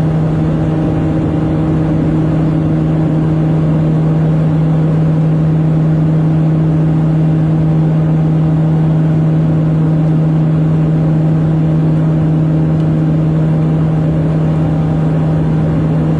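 Propeller aircraft's engines droning steadily, a loud low hum holding one pitch with no rise or fall.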